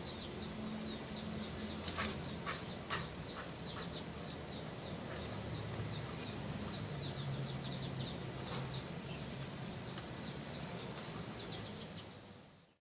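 Small birds chirping in rapid, high, repeated notes, with a few sharp clicks about two to three seconds in; the sound fades out near the end.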